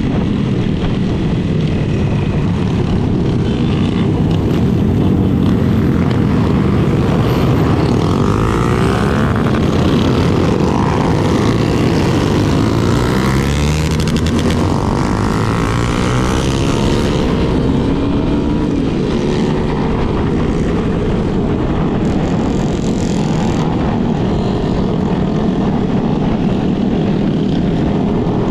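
Motorcycle riding, with the Yamaha Lander 250's single-cylinder engine running under a steady rush of wind noise. Engine pitch rises and falls through the middle as the ride speeds up and slows among other motorcycles.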